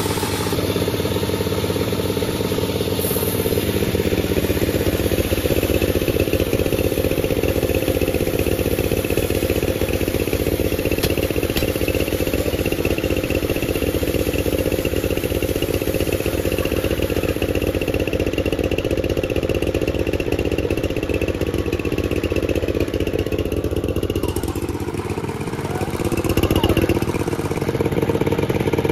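Panda36 sawmill running steadily under power while cutting a log, with a brief dip and shift in pitch a few seconds before the end before it settles again.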